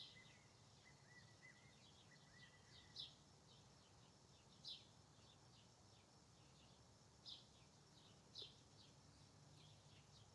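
Faint bird calls: short, sharp, falling chirps every couple of seconds, with a run of soft, arching whistled notes in the first two seconds.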